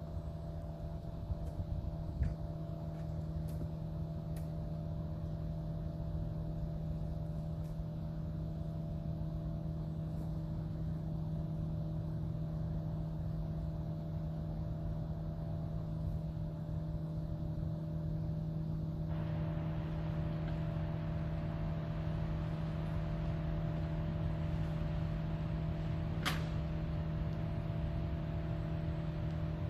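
A steady mechanical hum at one constant low pitch, with a rise in background hiss partway through and a single sharp click near the end.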